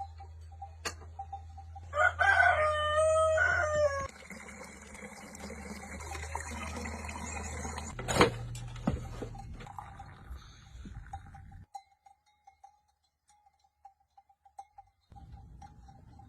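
A rooster crows once, a single call of about two seconds that is the loudest sound here. A sharp knock comes about eight seconds in.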